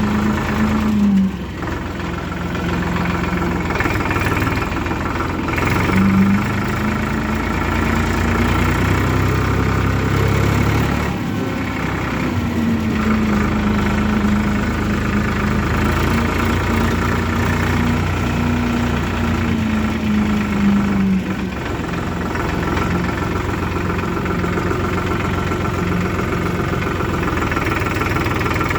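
Diesel engines of a backhoe loader and farm tractors running, the engine note rising and falling several times as they are revved.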